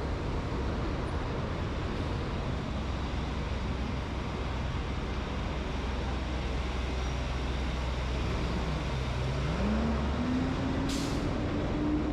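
Road traffic noise with a steady low hum. About nine seconds in, an engine's pitch dips and then rises and holds, as a vehicle pulls away. A short, sharp hiss follows near the end.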